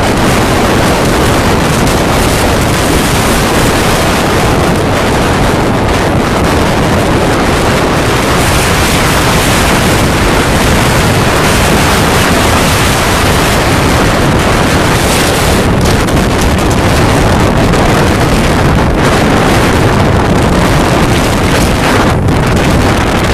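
Storm wind blowing hard across the microphone, a loud, steady rush, with sea waves breaking in the surf.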